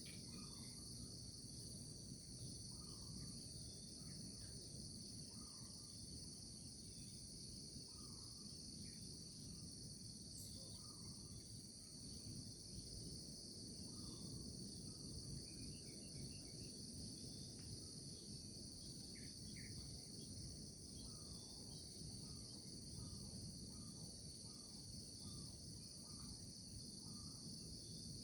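Faint natural ambience: a steady, high insect chorus like crickets, over a low rushing hiss, with short calls repeating every second or two.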